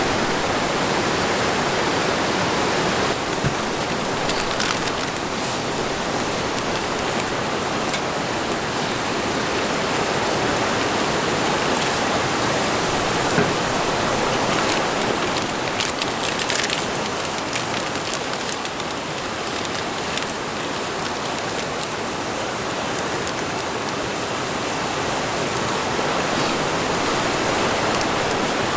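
Steady rushing of a river running past, with a few faint ticks here and there.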